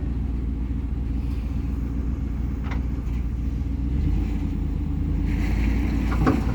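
Low, steady rumble of a vehicle's engine running.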